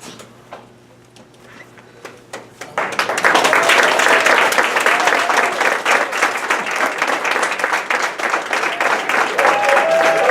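Audience applauding, bursting out suddenly about three seconds in after a quiet stretch with a few scattered claps and clicks, with voices calling out and cheering over the clapping.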